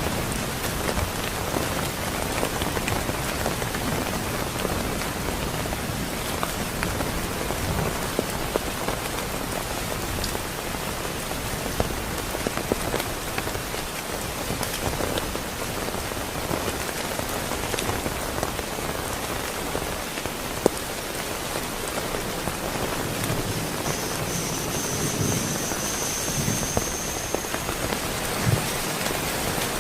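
Heavy rain falling steadily, with scattered sharper drop hits. A faint high whistle sounds for a few seconds near the end, while a low rumble of thunder begins to build.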